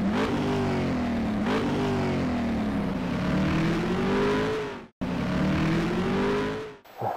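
Car engine revving hard through the gears. Its pitch climbs and drops back at two gear changes within the first two seconds, then climbs steadily until it cuts off abruptly about five seconds in. After the cut, another climb stops short near the end.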